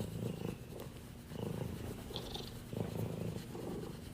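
A domestic cat purring close up, the purr swelling with each breath about every second and a half.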